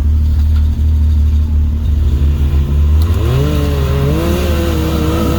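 Side-by-side UTV engine running at a low rumble, then revving up about two seconds in and holding high revs as the machine works to climb an icy patch.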